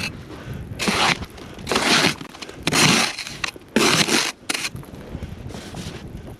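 Footsteps crunching through deep powder snow, about one step a second.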